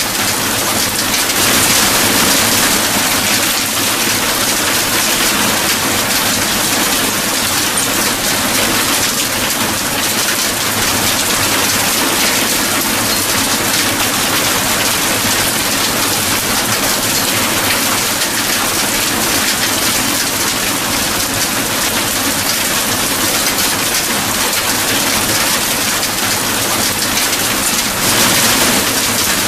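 Steady rain falling, an even hiss with fine crackle of drops, swelling slightly about two seconds in and again near the end.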